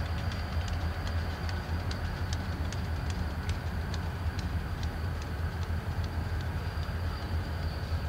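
Freight train rolling slowly: a steady low diesel rumble under sharp, irregular clicks from the wheels and cars, several a second at first and thinning out after about five seconds.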